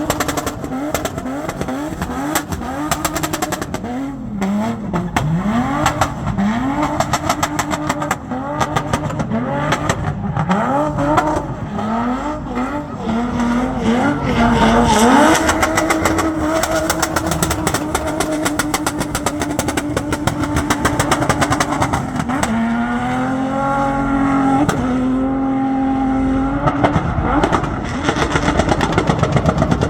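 Single-turbo V8-swapped drift car's engine revving up and down over and over during donuts, then held at a steady high rev for several seconds, dipping once and held again before dropping off near the end. A rapid crackle of pops runs through it.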